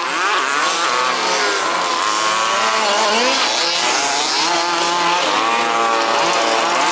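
Several 1/5th-scale RC buggies' small two-stroke petrol engines racing together, their overlapping buzzing pitches rising and falling as the cars accelerate and brake around the track.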